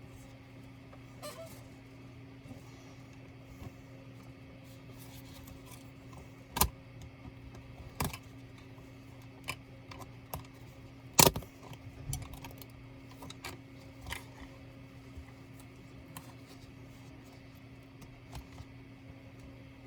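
Scattered sharp clicks and knocks of small hard parts and tools being handled during a laptop teardown, over a steady low hum. The loudest knocks come about six and a half, eight and eleven seconds in.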